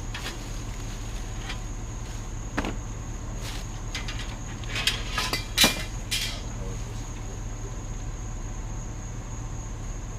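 Knocks and rattles as a discarded TV stand is handled and pulled at to get its bottom off: one knock a few seconds in, then a quick cluster near the middle, the loudest about halfway. Behind it, a steady high insect trill and a low hum.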